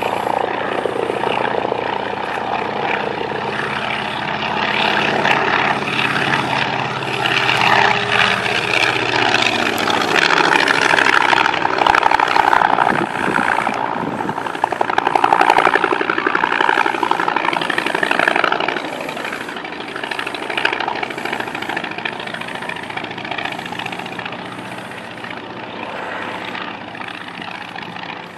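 Yak-18 trainer's radial engine and propeller in aerobatic flight, growing louder as the aircraft comes closer and dropping in pitch as it passes, loudest in the middle, then fading away as it climbs off.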